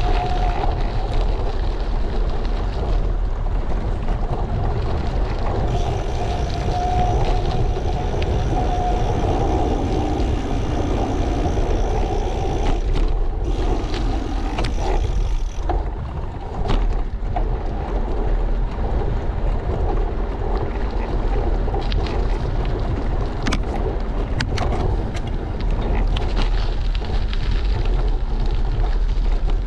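Wind buffeting the microphone of a moving bicycle, over steady road and tyre noise. A faint wavering whine runs through the first half, and a few sharp clicks or knocks come about halfway and again about three-quarters through.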